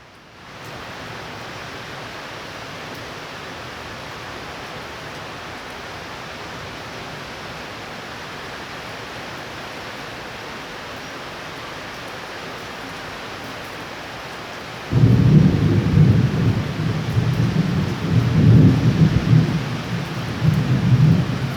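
Steady heavy rain hiss, then about fifteen seconds in a thunderclap breaks in suddenly and rolls on as a loud, low rumble that surges and fades in waves.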